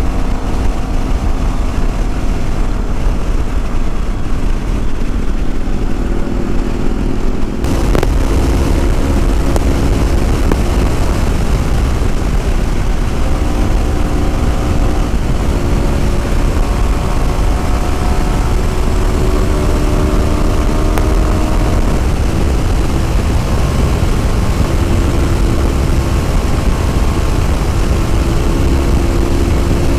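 Yamaha WR250R's single-cylinder engine running at a steady cruise, its pitch shifting a little now and then, over rushing wind noise. About eight seconds in the wind rumble gets suddenly louder.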